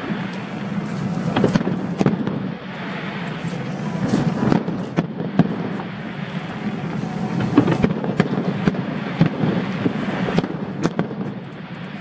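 Aerial fireworks going off in a rapid run of bangs and crackling bursts, with crowd noise under them.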